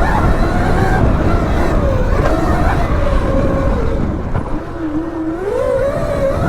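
Mini dirt bike engine running, its pitch wandering up and down; the revs drop about four and a half seconds in, then climb again near the end.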